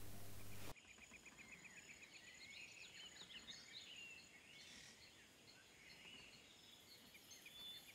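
Faint birdsong: many short, high chirps and trills over a low hiss, starting about a second in as a faint room hum cuts off.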